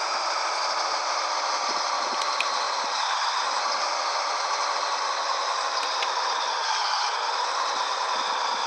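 Scania 113 truck running, a steady wash of noise with constant rattling.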